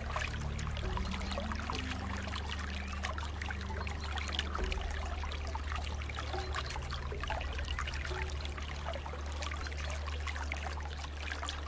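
Flowing water trickling and splashing steadily, a continuous rush dotted with many small splashes.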